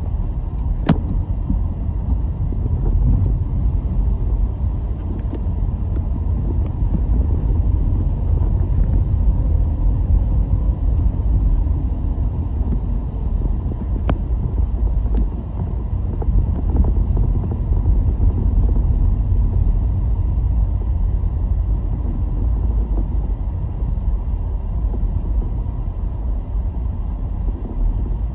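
Car driving along a road: a steady low rumble of engine and tyre noise, with a short sharp click about a second in and another at about fourteen seconds.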